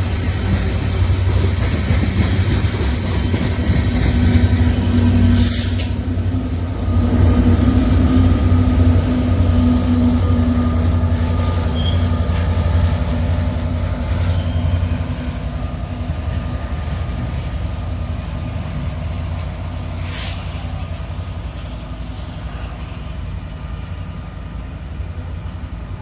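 Freight train rolling past: a steady low rumble of railcar wheels on the rails, with a faint thin squeal over it, slowly fading over the second half.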